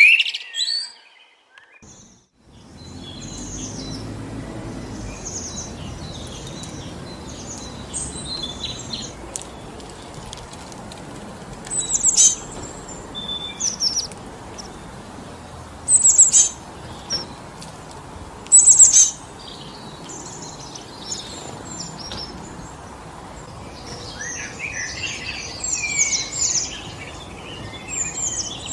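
Wind blowing through forest trees as a steady rushing noise, with birds calling and chirping over it. The sound drops almost to silence for about a second near the start, then the wind sets in; sharp high chirps come at intervals, louder ones about halfway through, and a busier burst of calls near the end.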